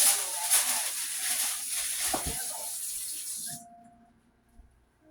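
Kitchen tap running hard into the sink with a few clatters of dishes, then turned off abruptly about three and a half seconds in.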